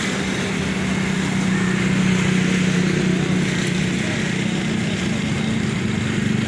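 Tractor engine running steadily with a constant low hum, getting slightly louder about two seconds in.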